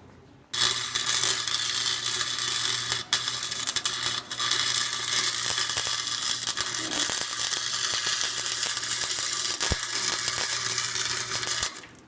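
A 90-amp Harbor Freight wire-feed welder running a bead on the rear differential gears to weld the differential solid: a steady crackling hiss over a low electrical hum. It starts about half a second in, breaks off briefly twice, at about three and four seconds, and stops just before the end.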